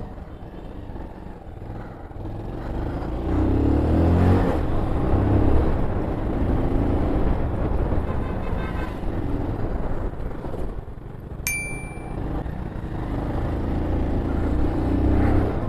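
Motorcycle engine running under the rider while riding in traffic, pitch rising and falling as it accelerates and eases off, with road and wind noise. A short high beep sounds about two-thirds of the way through.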